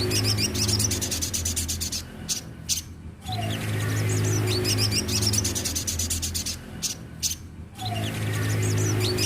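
Sogon (olive-backed sunbird) singing: rapid high-pitched chattering ticks mixed with short twittering notes, in phrases of about four seconds broken twice by a brief pause, over a steady low hum.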